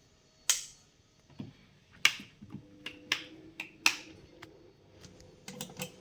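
Sharp, separate clicks of switches and buttons being pressed while powering up a desktop PC, four of them loud, with a faint steady hum coming in about halfway through.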